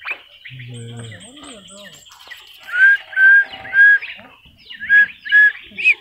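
A bird calling in a series of short, clear whistled notes, each curving down in pitch. They come in a run of three about three seconds in and more near the end, and they are the loudest sound. The caged bird is an Asian fairy-bluebird.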